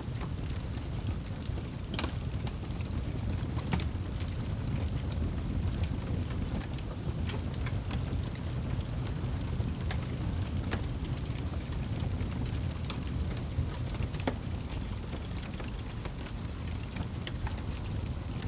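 Rain and crackling fire ambience: steady rain with a deep rumble, and scattered sharp crackles and pops from the fire every second or two.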